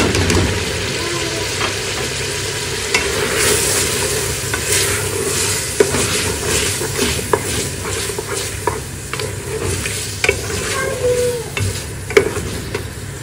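Chana dal poured from a plastic strainer into hot oil and tomatoes in an aluminium pressure cooker, then stirred and fried with a wooden spatula. It sizzles steadily, and the spatula scrapes the bottom and now and then taps the pot, most sharply near the end.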